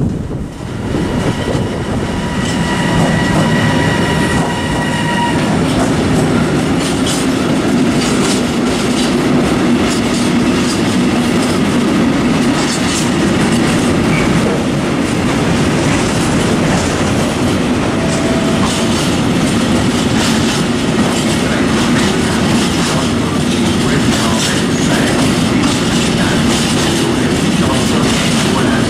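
Freight train of container flat wagons rolling through at speed, a steady heavy rumble with the clickety-clack of wheels over rail joints. A high steady whine sounds over it for the first few seconds.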